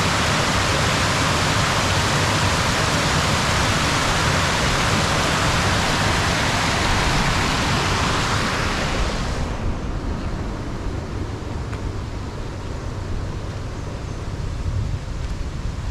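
Rushing water, as at a weir or waterfall, a loud steady hiss that cuts off abruptly about nine seconds in, leaving a fainter low rumble.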